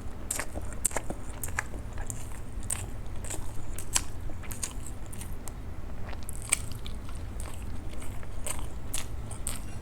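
Close-miked eating of soft idli with sambhar and chutney: wet chewing and mouth clicks coming irregularly, over a steady low hum.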